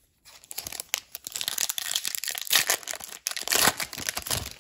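Foil hockey card pack wrapper being torn open and crinkled, a dense run of crackling and tearing that starts just after the beginning and keeps going almost to the end.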